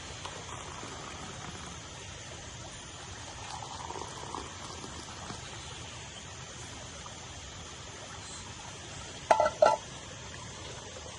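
Steady rushing water sound throughout. Near the end, two short, loud pitched sounds come about half a second apart.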